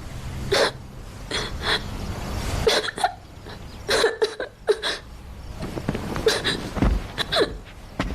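A child crying in short, irregular sobs with hiccuping gasps between them.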